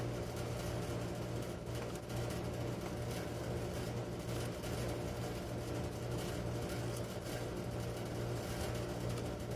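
Steady low machine hum with a constant hiss, unchanging throughout.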